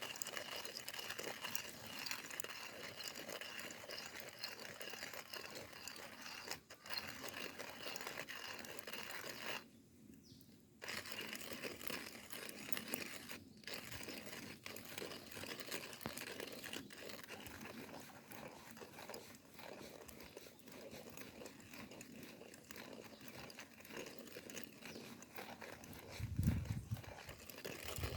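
Wood fire crackling with dense, irregular small pops and snaps, with one low thump near the end.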